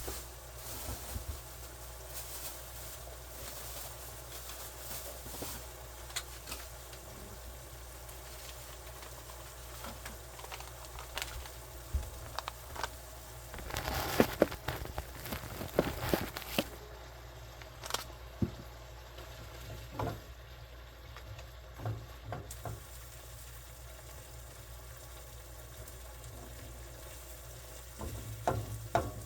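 Food frying in a pan on the stove, a steady sizzle with scattered crackles and pops. About halfway through and again near the end come clusters of sharper knocks and scrapes, like a utensil working in the pan.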